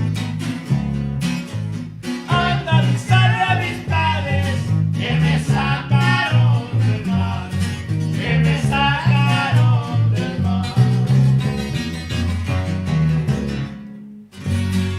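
Live norteña band music: guitars over a heavy, bouncing bass line, with a voice singing. The song ends with a final chord that rings out.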